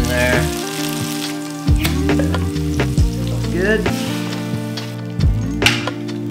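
Sliced bell peppers and onion sizzling in a hot frying pan as they are stirred. Bear meat then goes into a second hot pan and sizzles, with tongs clicking against the pans several times.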